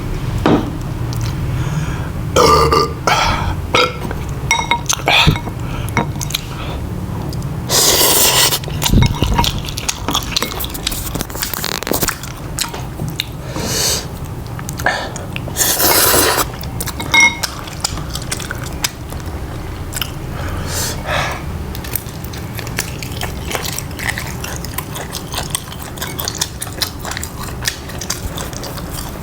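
Close-miked chewing and mouth noises of a person eating, with many small clicks and two longer crunchy bursts, about eight seconds in and again about halfway through, over a steady low hum.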